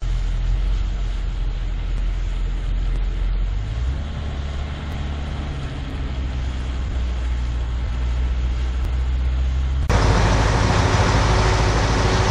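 A large engine running steadily with a low hum, which changes abruptly about ten seconds in to a louder, rougher rumble.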